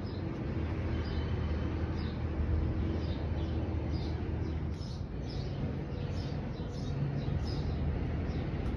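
A steady low mechanical rumble of the outdoor city background. Over it, a small bird chirps over and over, about two short high chirps a second, stopping near the end.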